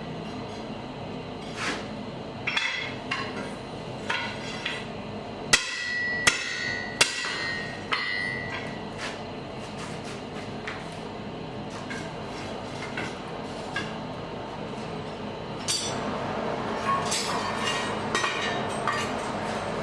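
Blacksmith's hammer striking an anvil with a ringing clang. Three loud strikes come about 0.7 s apart a little after five seconds in, among lighter taps and clinks, over the steady rushing noise of a forge fire.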